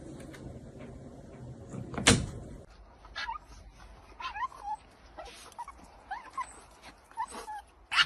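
A dog whimpering in a string of short, high whines that bend up and down. A sharp knock comes about two seconds in, before the whining starts.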